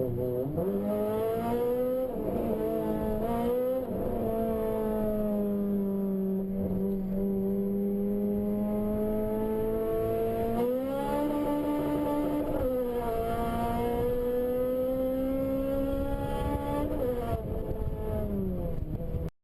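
Honda K20 inline-four engine running hard, one sustained note whose pitch sags slowly for several seconds, jumps up sharply about halfway, then drops back in steps near the end as the revs change.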